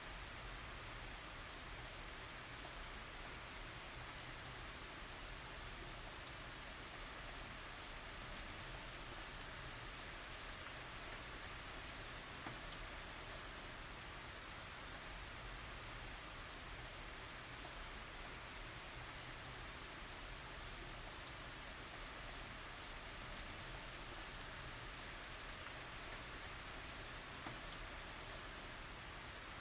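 Steady tropical rain falling, an even hiss of rain with fine drops pattering on surfaces and no thunder.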